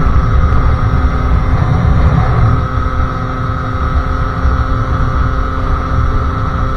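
Sherco SM-R 50cc two-stroke engine, fed by a Polini carburettor and exhausting through a KRM expansion pipe, running at steady revs while the bike is ridden, with wind rumbling on the microphone.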